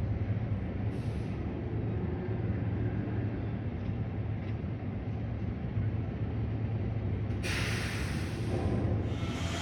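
Garbage truck's diesel engine running steadily with a low rumble. It is joined by a brief faint hiss about a second in, and near the end by a loud hiss of released air lasting about a second and a half.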